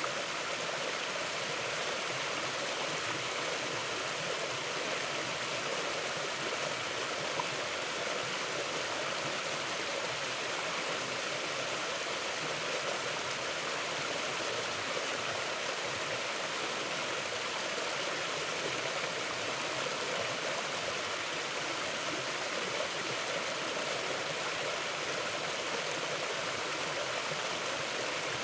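Mountain river flowing: a steady, even rush of water with no change in its course.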